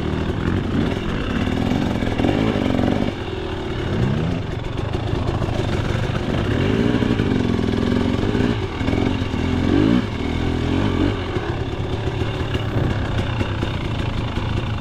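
KTM 300 XC two-stroke dirt bike engine revving up and down under riding, its pitch rising and falling several times, with a quick climb about four seconds in.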